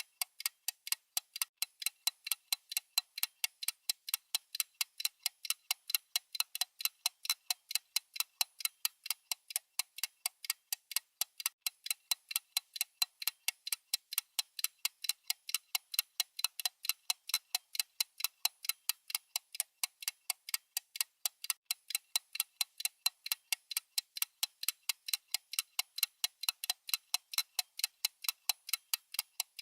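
Clock-style ticking sound effect of a digital countdown timer: an unbroken run of crisp, high, evenly spaced ticks at a steady level.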